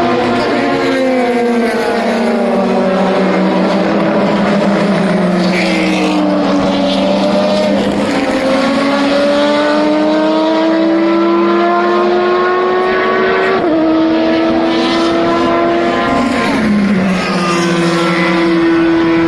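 Race car engines at full racing speed, several overlapping as cars pass one after another. The engine notes rise through the gears, drop suddenly at a shift about two-thirds of the way through, and slide down in pitch as cars go by.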